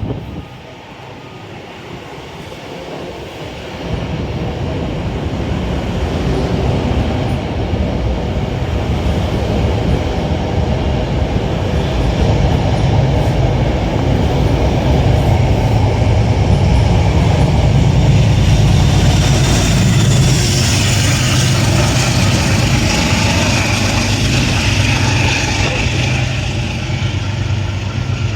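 Metro-North commuter train running through the station, its rumble building over the first few seconds and then holding loud and steady, with a hiss growing in later on.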